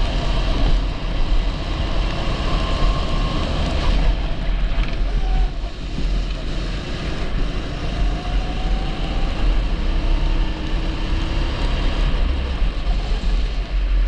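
A 270cc go-kart engine running under way, with wind rushing over the microphone; the level dips briefly about five and a half seconds in.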